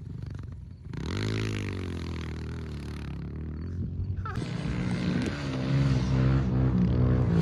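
Pit bike engine revving up at about a second in, then running hard at high revs and getting louder toward the end.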